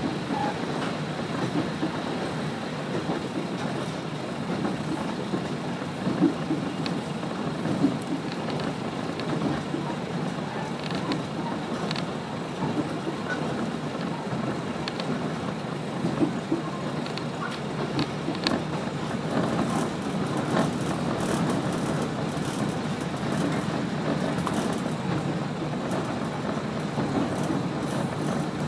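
Kashima Rinkai Railway 6000-series diesel railcar running, heard inside the passenger cabin: a steady rumble of engine and wheels on the rails, with scattered light clicks and rattles that come more often near the end.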